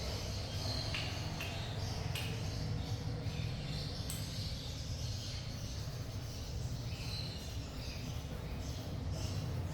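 Parrots giving short scattered chirps and squawks over a steady low hum.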